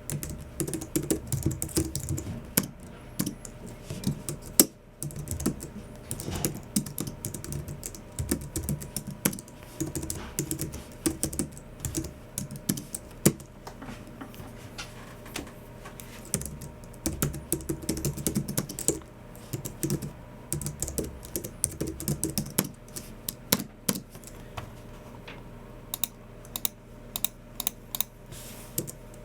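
Typing on a Logicool MX Keys Mini low-profile scissor-switch keyboard: quick runs of soft key clicks in bursts, with short pauses between them.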